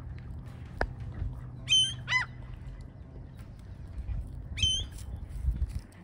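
Birds calling at the water's edge: three short pitched calls, two in quick succession about two seconds in and a third just before five seconds, over a low background rumble. A single sharp click comes just before the first second.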